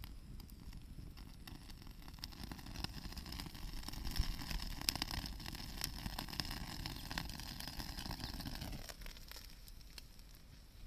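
Wood campfire crackling with scattered sharp pops, over a rumbling noise that swells through the middle and stops abruptly about nine seconds in.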